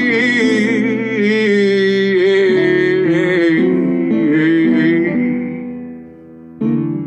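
Song: a singer holds one long wavering note over instrumental accompaniment. The note fades away about six seconds in, and the accompaniment comes back in with sharp chords just before the end.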